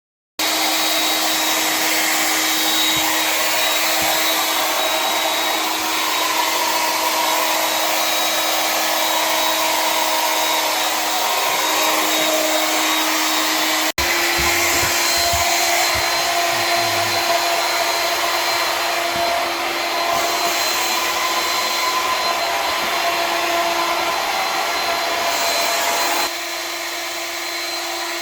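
A small motor running steadily with a rushing, air-like noise and a constant hum. It breaks off abruptly about halfway and starts again at once, and becomes quieter near the end.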